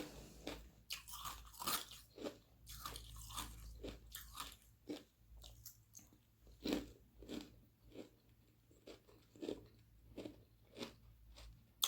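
Crunching and chewing of frozen carbonated-water ice sheets, with crisp crunches about every half second to a second and a faint low hum underneath.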